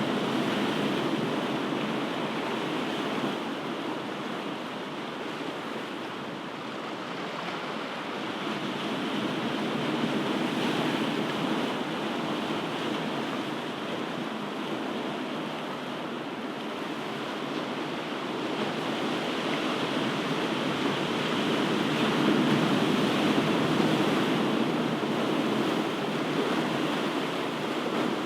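Ocean surf: a continuous wash of breaking waves that swells and eases slowly, with the surges about ten seconds apart.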